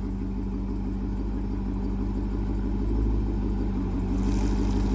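High-performance Hemi V8 idling with a heavy, pulsing low rumble, getting a little louder about three seconds in and again near the end.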